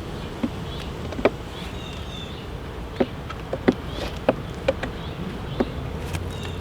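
Honey bees buzzing steadily around an open hive, with about seven sharp clicks or taps scattered through it.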